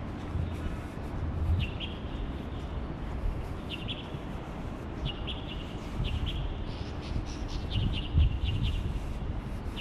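A small bird chirping in short bursts of quick high notes, several times at irregular gaps, over a steady low rumble of outdoor background noise.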